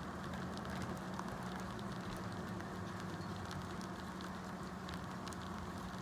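Light rain pattering: many small drop ticks over a steady hiss, with a steady low hum underneath.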